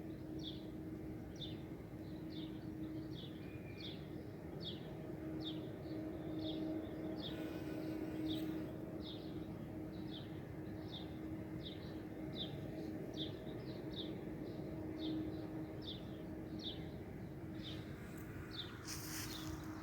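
A small bird calling over and over with short, high, slightly falling chirps, about one and a half a second, over a steady low hum.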